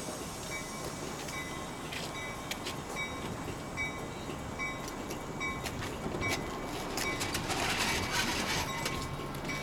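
NJ Transit commuter train rolling slowly alongside the platform as it comes to a stop, with a steady rumble. A short high electronic beep repeats about every two-thirds of a second, and a louder rushing noise swells between about seven and nine seconds in.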